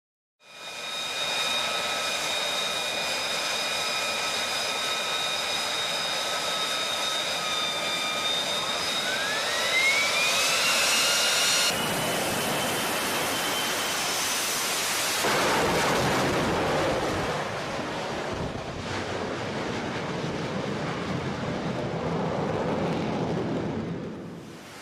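F-35B's Pratt & Whitney F135 jet engine running, a steady high whine over its roar. About nine seconds in a whine rises in pitch. Near twelve seconds the sound switches abruptly to a rougher, deeper roar without the whine.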